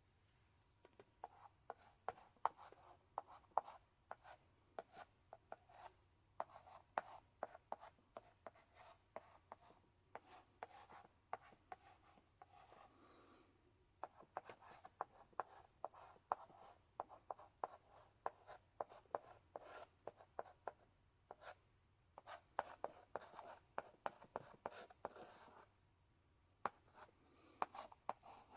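Chalk in a chalk holder writing on a blackboard: runs of quick taps and scratchy strokes, with short pauses between groups of strokes.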